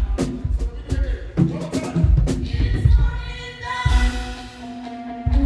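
Live praise band music: drum kit with a steady kick drum and cymbals over bass and keys. About four seconds in the drums drop out, leaving a held chord, and the kick comes back just before the end.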